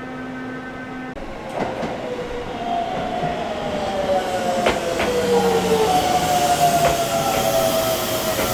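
Electric commuter train pulling into a station: the traction motors whine in several tones that slide down in pitch as it brakes, with a few wheel clicks over rail joints, growing louder as it nears.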